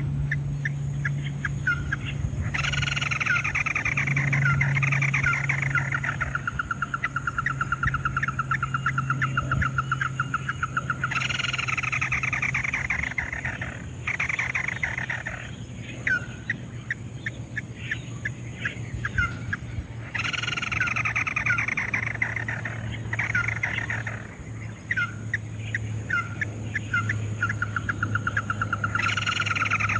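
Crake calls: bouts of a falling series of notes that settle into a rapid even trill, starting afresh about every nine seconds, with scattered single notes between bouts. This is the kind of call used to lure a red crake into a trap. A steady low hum runs underneath.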